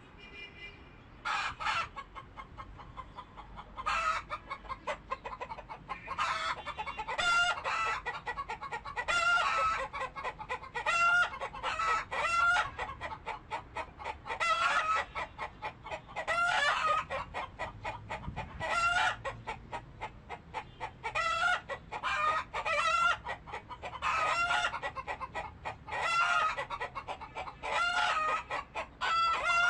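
Chickens clucking and calling over and over, many short pitched calls following one another, some drawn out a little longer.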